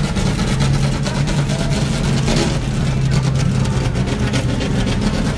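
Racing car engines running, a steady loud low drone that shifts slightly in pitch.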